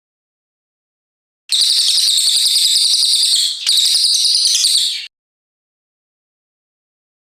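Brown cililin songbird singing one long, rapid, high-pitched burst of song lasting about three and a half seconds, starting about a second and a half in, with a brief break about halfway through.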